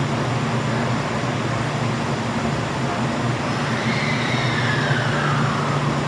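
Kintetsu 23000 series Ise-Shima Liner electric train pulling out of the station, with a steady low hum and a high whine that slides down in pitch about four seconds in.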